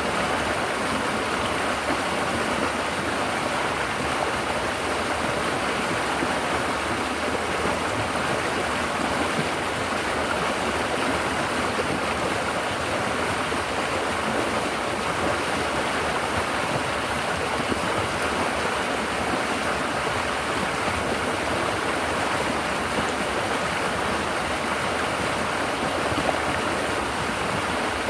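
River water flowing and babbling over rocks, a steady rushing splash.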